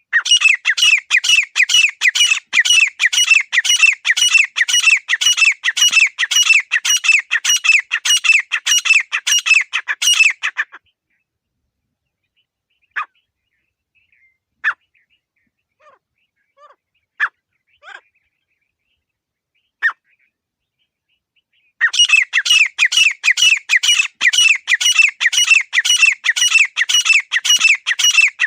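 Grey francolin calling: a long run of rapid repeated notes, about four a second, that stops about ten seconds in. A few scattered single notes follow, then the rapid run starts again about twenty-two seconds in.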